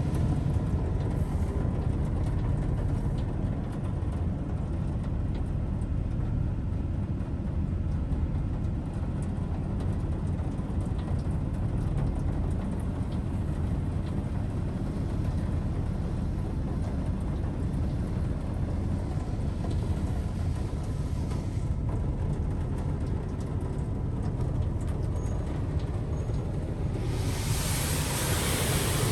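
Washworld High Velocity touchless car wash machine running with a steady low rumble. About 27 seconds in, a loud hiss of spray or air comes on.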